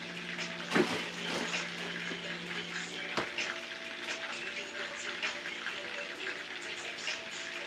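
Steady crackling sizzle of chicken frying in a pan, dotted with small pops. About three seconds in comes a single knock as the freezer door is shut.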